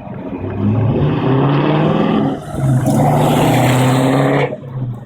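Mid-mounted LT1 V8 with side-exit exhaust accelerating hard: the engine note climbs in pitch, breaks briefly about two and a half seconds in as it shifts gear, climbs again, then cuts off suddenly near the end as the throttle is lifted.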